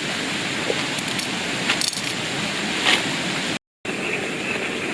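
Steady hiss with a few light metallic clinks, like utensils or cookware being handled; the sound cuts out abruptly for a moment just after three and a half seconds in.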